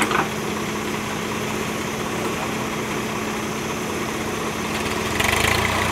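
Backhoe loader's diesel engine running steadily at idle with a constant hum, with a brief louder rush of noise about five seconds in.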